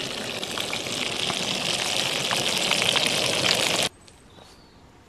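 Food sizzling in a hot pan, a dense hiss with many small pops, cutting off suddenly about four seconds in to a faint outdoor background.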